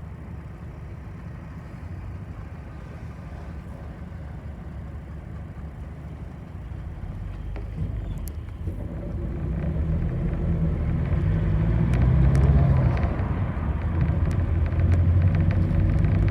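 Bus engine and road rumble heard from inside the passenger cabin, low and steady at first, then growing much louder about halfway through as the engine pulls harder. A few light clicks come near the end.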